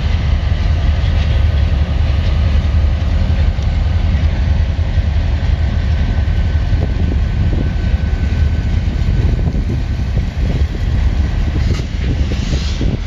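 CSX freight train rolling past at restricting speed: a loud, steady low rumble of diesel locomotives and steel wheels on rail, with a faint steady high squeal around the middle.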